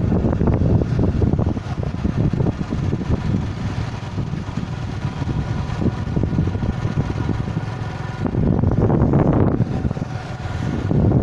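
Motorcycle running on the move, with wind rushing over the microphone; it gets louder for a moment late on.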